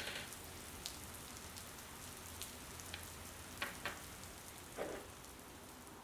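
Steady rain falling, a soft even hiss with scattered sharp drip-like ticks, the loudest a few in the second half.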